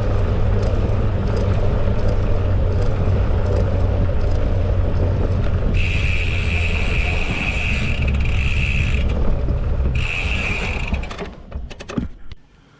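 Bicycle in motion: steady wind and tyre rumble. Partway through, the rear hub's freewheel buzzes twice while coasting, then the noise drops as the bike slows, leaving a few separate freewheel clicks near the end.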